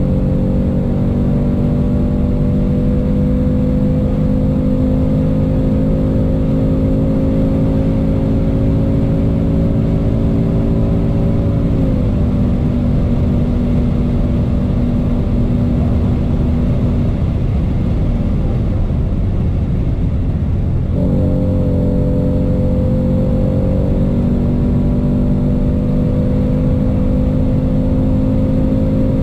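Ford Mustang GT's 5.0-litre V8 heard from inside the cabin at high revs above 200 km/h, its note climbing slowly, then dropping in pitch about twelve seconds in as the ten-speed automatic shifts up into eighth gear. A few seconds later the engine note fades under wind and tyre roar. About twenty-one seconds in it jumps back up as the gearbox shifts down to seventh, then climbs again.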